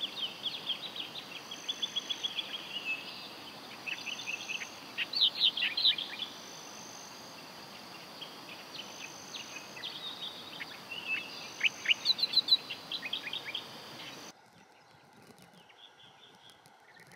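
Birds calling at the riverside: many short, high chirps and quick down-slurred notes over a steady outdoor hiss. About 14 seconds in it drops to a quieter ambience with only faint chirps.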